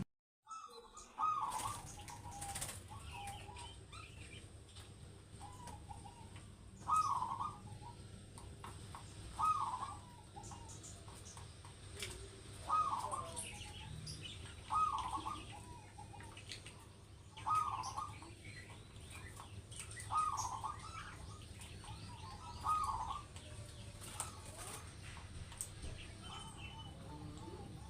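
Zebra dove (perkutut) cooing its song again and again, a short phrase about every two to three seconds, with fainter chirps of other small birds behind it.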